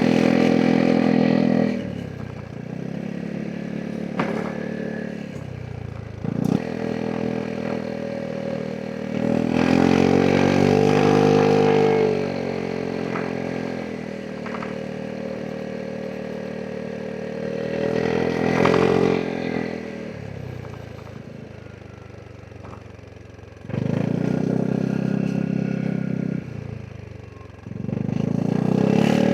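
Vespa GTS 300 SuperSport scooter's single-cylinder four-stroke engine under way. It pulls loudly in several stretches of open throttle and falls back to a quieter drone each time the throttle is eased off.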